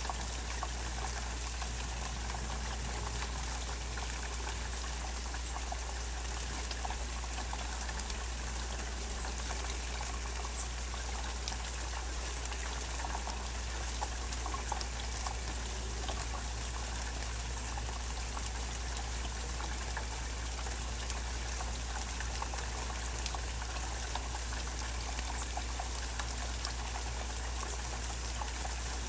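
Steady rain falling, with many small drips and trickling water, over a steady low rumble.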